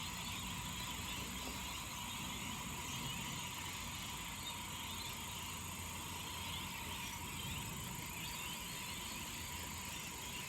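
Flock of rainbow lorikeets chattering and screeching together as a steady, faint, dense chorus.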